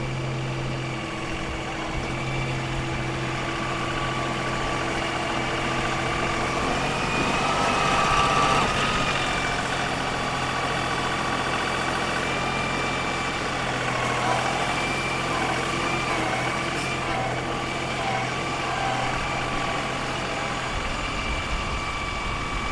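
LS XR3135 compact tractor's engine running while it digs in the potato patch: a steady engine hum with a whine above it that swells and bends in pitch about eight seconds in, and again in the second half.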